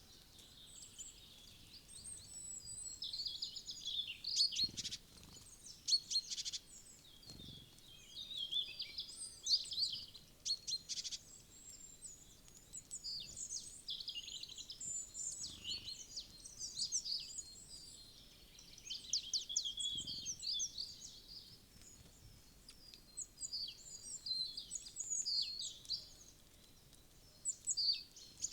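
Wild woodland songbirds calling and singing, with many quick high chirps and trills overlapping throughout. A few soft low thumps come through now and then.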